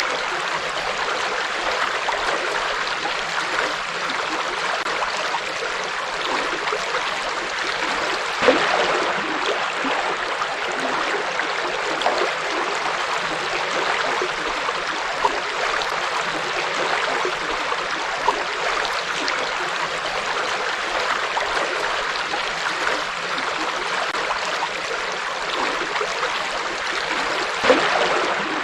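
Forest river water flowing steadily in an even, continuous rush, with a few brief louder splashes, one about a third of the way in and one near the end.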